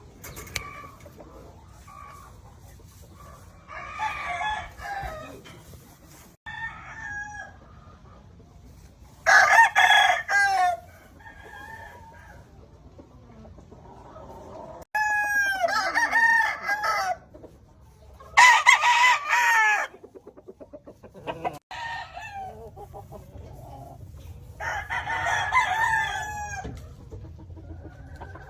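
Gamefowl roosters crowing one after another, about five loud crows of a second or two each, with fainter crows and clucking in between.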